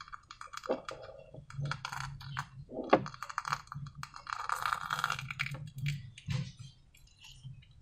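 Slime being worked by hand, making a run of small sticky clicks and crackles. The crackling is thickest about two and five seconds in.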